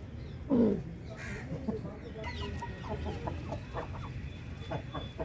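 Aseel chickens clucking, with one loud short squawk about half a second in and a run of quick clucks in the second half.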